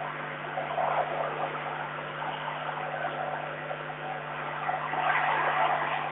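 Strong, gusty wind rushing over the webcam microphone, swelling about five seconds in, over a steady electrical hum.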